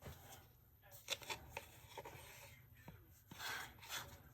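Faint handling noises of resin-crafting tools: a string of light clicks and taps with short scraping and rustling, the longest scrape near the end.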